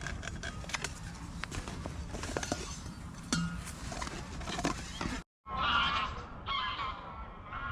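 Scattered clicks and knocks over outdoor background noise, then after an abrupt cut about five seconds in, geese honking repeatedly.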